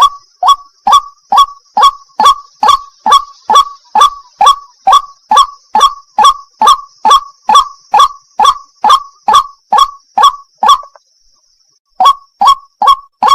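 White-breasted waterhen (burung wak-wak) calling: one loud, monotonous 'wak' note repeated evenly about twice a second. The calls stop for about a second near eleven seconds in, then carry on.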